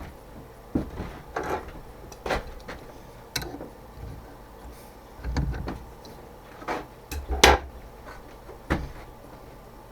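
Scattered knocks, clinks and short scrapes of metal parts and tools being handled and set in place at the mini lathe, with no machine running. The loudest knock comes about seven and a half seconds in.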